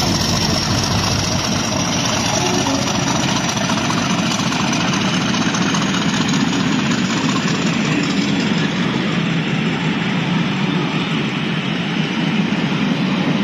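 Locomotive-hauled train passing close by: the English Electric Class 50 diesel locomotive moving away while a rake of Mk1 coaches rolls past with a steady, loud rumble on the rails, with the Class 37 diesel at the rear drawing near at the end. A faint high whine slowly falls in pitch over the first several seconds.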